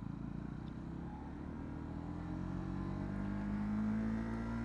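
Honda CB125R's single-cylinder engine running under way. Its pitch rises steadily from about a second and a half in as the bike accelerates, then holds level near the end.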